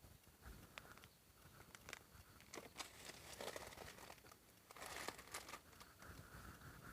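Faint rustling and crinkling with scattered small clicks, a little busier about halfway through and again near five seconds in.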